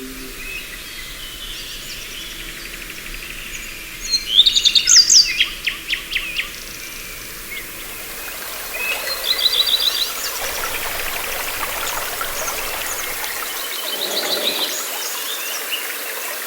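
Birds singing over a steady background hiss of outdoor ambience, with bursts of rapid chirps and trills about four seconds in, again around nine seconds and around fourteen seconds.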